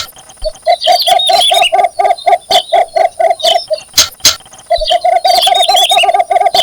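Cinnamon bittern giving its breeding call: runs of low notes repeated evenly about six times a second, breaking off briefly just before four seconds in and resuming about a second later. Higher chirps from another bird and a few sharp clicks sound over them.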